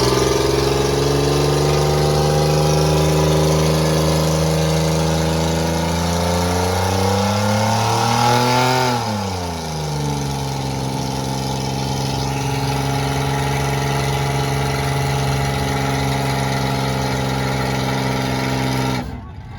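1988 Camaro's engine held at high revs during a burnout, its pitch climbing slowly to about nine seconds in, then falling back and holding steady at lower revs until it cuts off just before the end.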